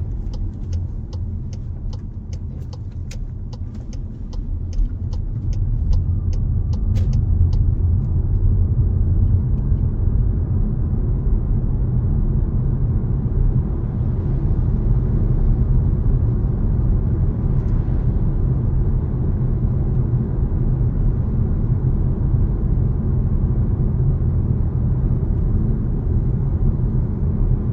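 Low, steady rumble of a car driving, heard from inside the cabin through a dashcam, with road and wind noise. Over the first seven seconds there is a regular ticking, about three ticks a second. About six seconds in, the rumble grows louder and then holds steady.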